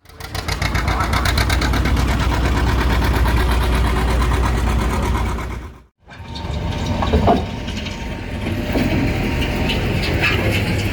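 1957 John Deere 820's two-cylinder diesel engine running, its exhaust beating in rapid, even putts. The sound cuts out sharply about six seconds in and resumes as a rougher engine sound with voices mixed in.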